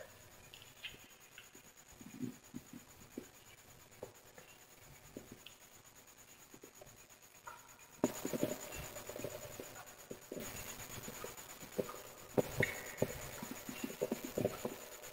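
Burning wood fire crackling, with scattered sharp pops. About eight seconds in it becomes louder and denser, the pops coming over a steady hiss.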